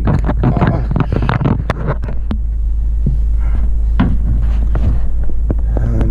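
Car cabin on a rough dirt track: a steady low rumble from the engine and tyres, with frequent knocks and rattles as the car jolts over bumps.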